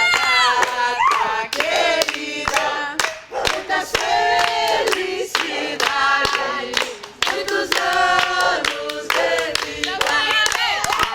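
A group of people singing together, clapping along.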